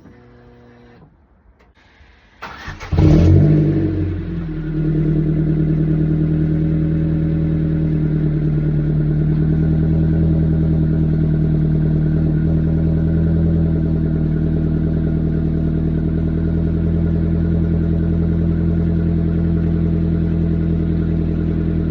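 Ford Focus Mk2 engine cold-started after two weeks standing: a brief crank about two and a half seconds in, then it catches with a short rev flare and settles into a steady fast cold idle.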